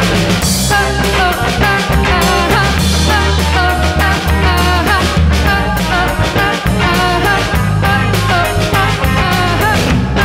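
Live band playing a song, with a steady drum beat under bass and melodic lines.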